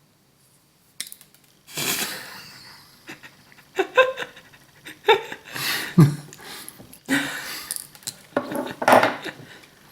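Hand-work on a small camera body with tools and plastic parts: a run of irregular clicks, taps and short scraping rubs.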